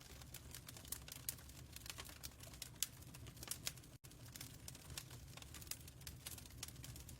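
Fireplace fire crackling: irregular sharp pops and snaps over a low steady rumble, with a brief dropout about four seconds in.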